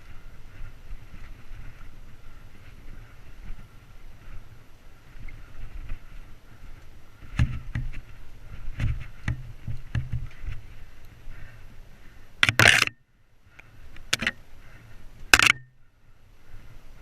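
Mountain bike ridden over a rough trail: steady rumble of tyres and riding noise, with a run of knocks and rattles from the bike over rough ground. Three loud sharp clatters come near the end.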